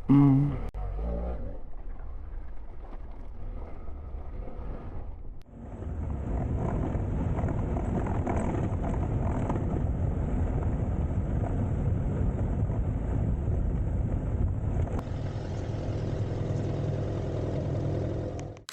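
BMW F700GS parallel-twin motorcycle engine running at low speed. About five seconds in, the sound steps up to steady riding noise, engine and wind together, which carries on until it cuts off at the end.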